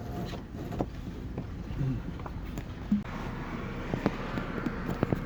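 Vehicle driving, with steady low engine and road noise and scattered sharp clanks and rattles from a strapped-down load of scrap metal.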